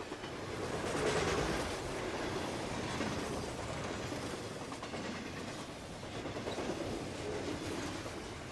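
A train running on rails, the wheels clattering over the rail joints in a steady clickety-clack, growing louder about a second in and then holding.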